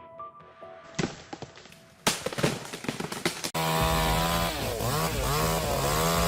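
Chainsaw running and cutting, coming in loud a little past halfway, its pitch dipping and rising over and over as it bites. Before it there is a stretch of crackling and clicks.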